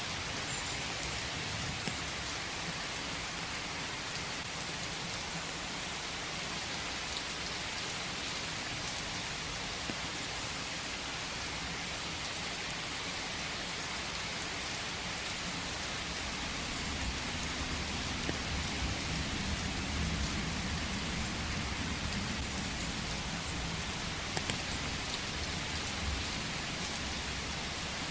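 Steady rain falling, with a few separate drop ticks. A low rumble swells up a little past the middle and fades again near the end.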